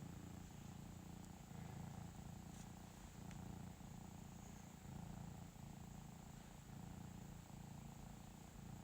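Domestic cat purring softly and steadily, the purr swelling and fading with each breath.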